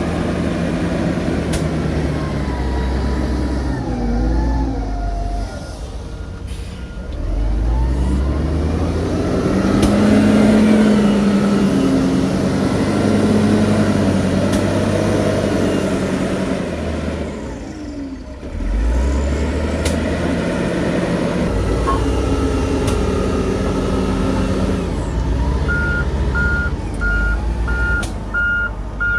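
Heavy diesel engines of a bulldozer and dump truck running, the engine note rising and falling as they work under load. A reversing alarm beeps steadily, nearly two beeps a second, near the start and again for the last few seconds.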